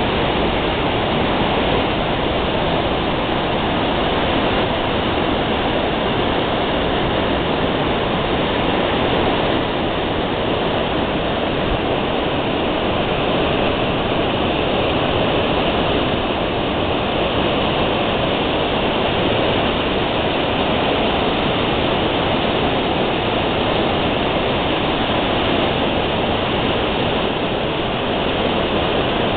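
Waterfall: the steady, loud rush of falling water, unbroken throughout.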